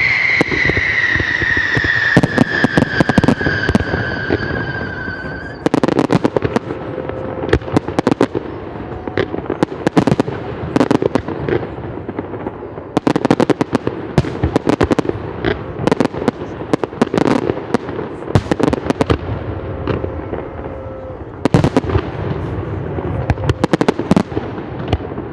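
Fireworks display: aerial shells bursting in quick, irregular bangs with crackling between them. A long falling whistle fades out about five seconds in, after which the bangs come thicker.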